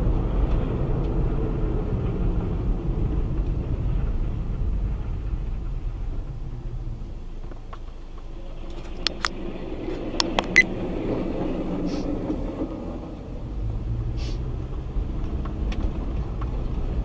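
Steady car engine and road rumble as heard from a moving car. A few sharp clicks or knocks come close together about nine to ten and a half seconds in.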